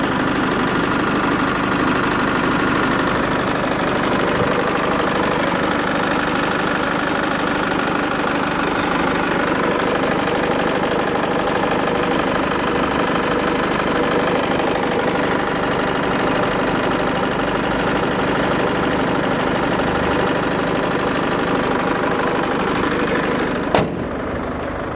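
Land Rover Freelander 2's 2.2-litre TD4 four-cylinder turbo diesel idling steadily with diesel clatter, heard with the bonnet open. It cuts off suddenly with a click near the end.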